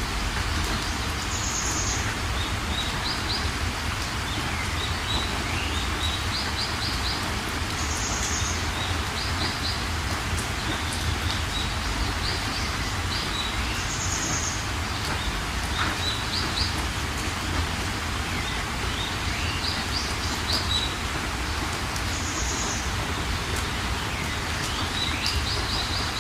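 Steady rain falling, with birds chirping over it: quick series of three or four high chirps, and a short, higher call that comes back about every six seconds.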